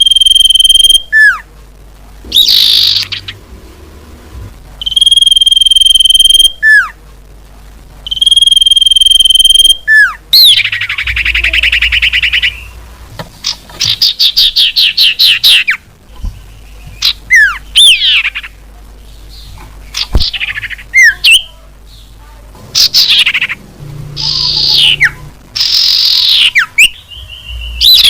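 Common iora calls from a bird-lure recording: long, steady high whistles, each followed by a sharp downward-sweeping note, then fast buzzy chattering trills and rising-falling phrases later on. The calls are loud and come in repeated phrases with short gaps between them.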